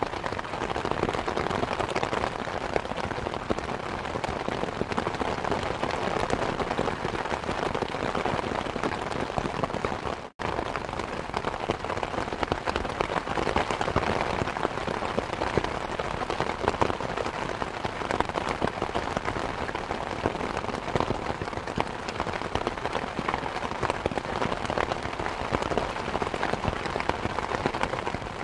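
Steady rain falling, mixed with the crackle of a wood fire in a fireplace. The sound cuts out for a split second about ten seconds in.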